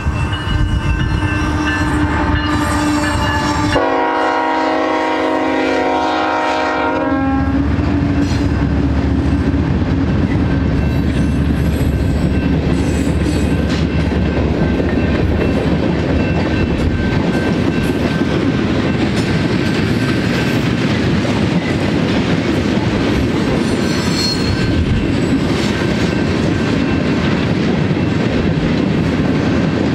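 BNSF manifest freight train led by GE ET44C4 locomotives passing through a grade crossing. A long horn blast sounds about four seconds in and lasts some three seconds, then the steady rumble and clickety-clack of freight cars rolling over the crossing.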